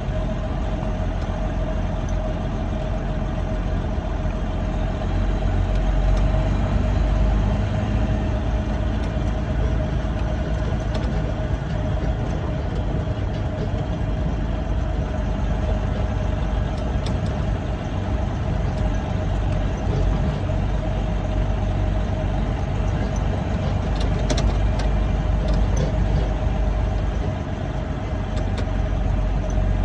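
Freightliner Classic semi truck's diesel engine running as the truck moves slowly, heard from inside the cab: a steady low rumble with a constant whine over it, and a few light clicks about two-thirds of the way through.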